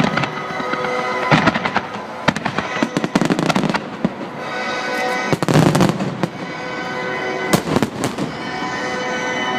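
Aerial fireworks from a starmine barrage: shells bursting in a run of sharp bangs with crackling, the densest burst about halfway through, over music playing throughout.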